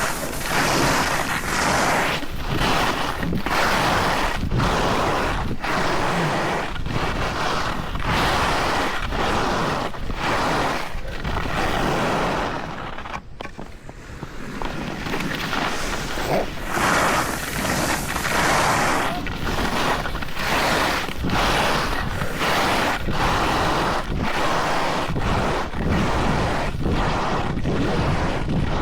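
Edges scraping and hissing over packed snow on a downhill run, swelling and fading in a steady rhythm turn after turn, with wind rushing over the microphone. The sound drops away briefly about halfway through.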